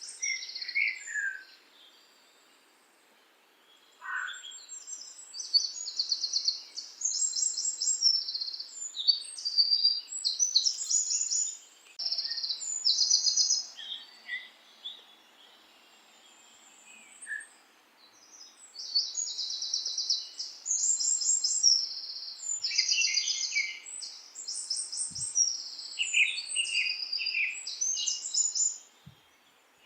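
Birds singing: quick, high trilled chirps in bursts, with short pauses between bouts.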